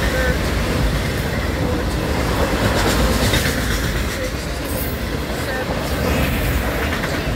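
Autorack freight train rolling past at speed: a steady rumble of steel wheels on rail, with clickety-clack over the rail joints.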